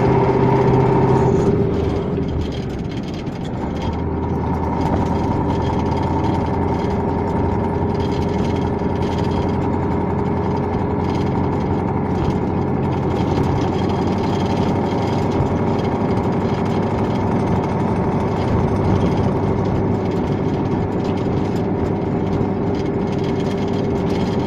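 KAMAZ 5511 dump truck's V8 diesel engine running under way, heard from inside the cab as a steady drone. The level dips briefly about two seconds in and picks up again about four seconds in.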